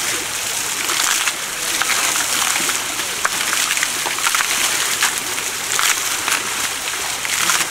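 Water splashing and spattering onto an elephant's body as it is washed, a steady hiss broken by many short splashes.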